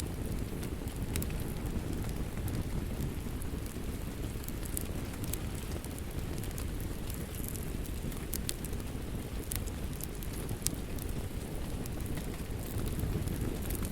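Wood fire crackling: scattered sharp snaps and pops over a steady low rush of burning.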